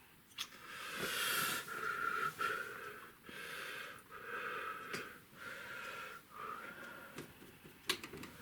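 A paintbrush rubbed back and forth on watercolour paper, about half a dozen rasping, slightly squeaky strokes of roughly a second each.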